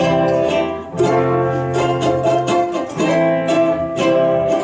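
Instrumental break in a song: chords strummed on a small acoustic plucked-string instrument, with a fresh strum roughly every second.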